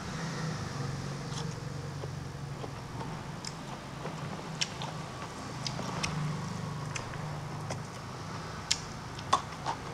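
A man chewing a mouthful of rice and boiled bamboo shoot close to a clip-on microphone, with a few sharp mouth smacks and clicks scattered through, over a steady low hum.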